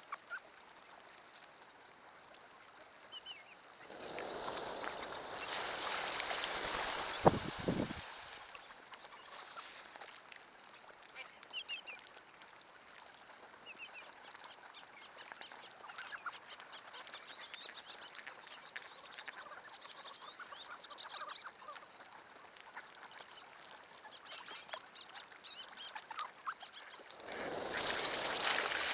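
A large flock of ducks calling, with many short quacks and whistles overlapping throughout. A rushing sound swells for a few seconds early on and again near the end, with a sharp knock about seven seconds in.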